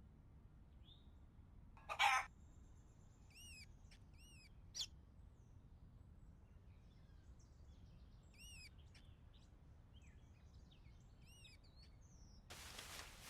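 A small bird gives several short, arched chirps, some in quick pairs. A brief loud burst about two seconds in is the loudest moment, and a rush of noise starts near the end.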